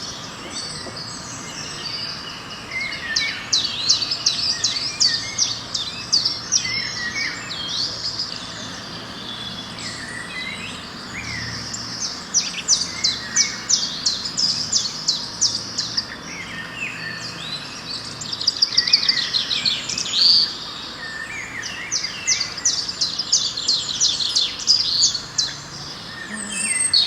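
A chorus of songbirds singing, with fast trilled phrases and short chirps overlapping throughout.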